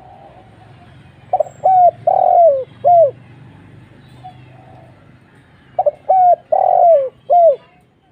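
Spotted dove cooing: two phrases of four or five coos each, the third note drawn out longer than the rest, about a second in and again near six seconds.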